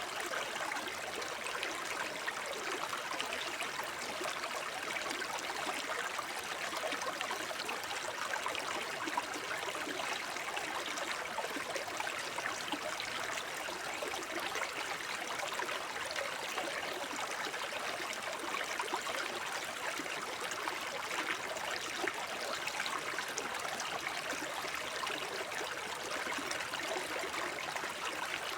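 Small forest brook babbling over stones: a steady, even burble and trickle of water with no let-up.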